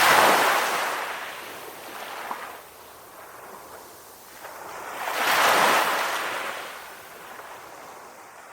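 Calm ocean waves breaking and washing up a shore: one wave swells and breaks right at the start, ebbs away, and a second breaks about five and a half seconds in, with a softer wash of surf between them.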